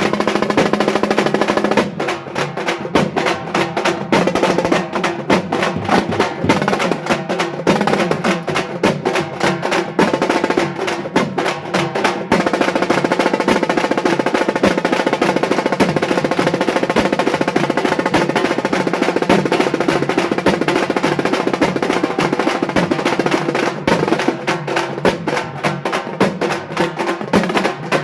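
Halgi frame drums beaten with sticks in fast, dense rolling rhythms, several drummers playing against each other in a jugalbandi.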